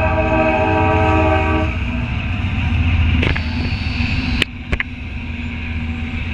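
Locomotive air horn held for a couple of seconds and cutting off, over the steady low rumble of a CSX coal train's diesel locomotives. A few sharp clicks come midway.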